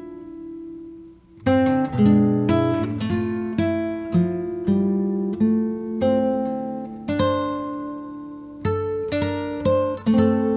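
Acoustic guitar music: plucked notes ringing out, dipping almost to silence about a second in before the playing resumes.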